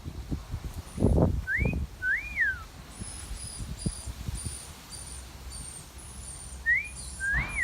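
A wolf whistle, a rising note then a rising-and-falling one, whistled twice: about a second and a half in and again near the end. Short, very high chirps repeat about twice a second from about three seconds in.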